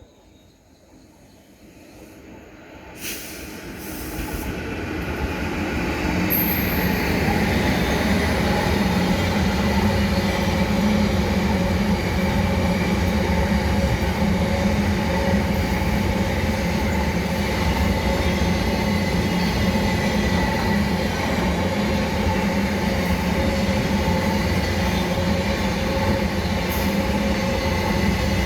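Car-carrier freight train hauled by a WAG-7 electric locomotive approaching and growing louder over the first several seconds. Its wagons then roll past in a steady rumble carrying a few held tones.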